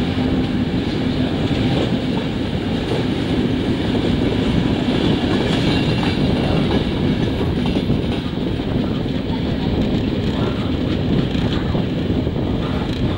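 Regional train running out of a station and picking up speed: a steady rumble of wheels on rails, with a low hum that fades after the first couple of seconds.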